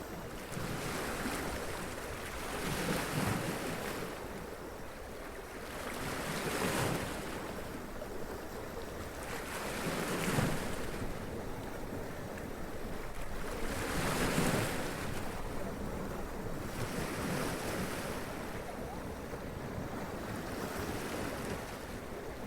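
Sea waves running up and splashing against rocks, the surf swelling into a louder wash every three to four seconds.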